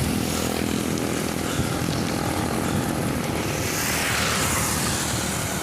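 Steady rush of wind buffeting the microphone while riding a bicycle along a road, with a faint engine hum from passing traffic in the first couple of seconds.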